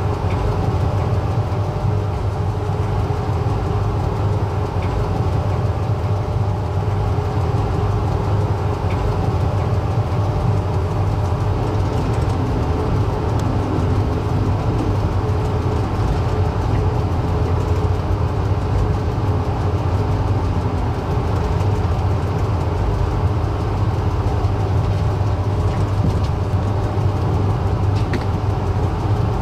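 Passenger train running on the New York–Boston line: a steady low rumble with a faint hum above it and a few faint clicks now and then.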